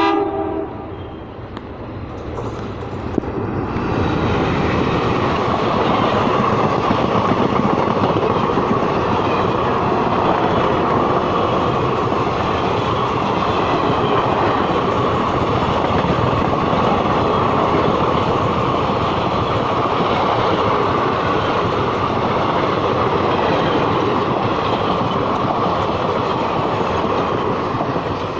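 Express train hauled by a WDM-3A ALCO diesel locomotive passing at speed, its wheels clattering over the rail joints. The noise swells over the first few seconds, holds steady and loud, then eases near the end.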